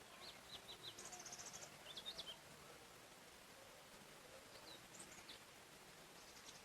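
Songbirds calling in a forest: a few short chirps, a quick high trill about a second in, and more scattered calls later, over a faint steady hiss.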